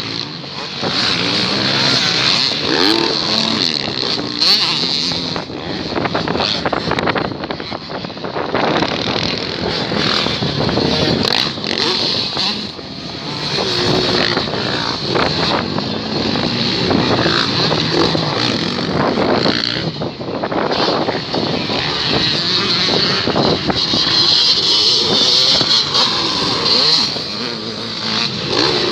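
Motocross bikes racing, their engines revving up and down as they ride through the track.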